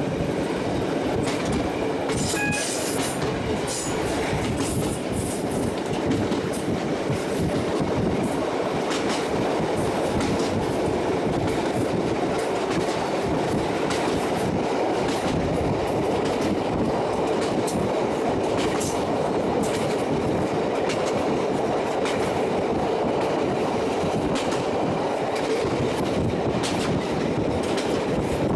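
Diesel passenger train running along the line, heard from on board: a steady rumble of wheels on rail with irregular clicks as the wheels pass over rail joints.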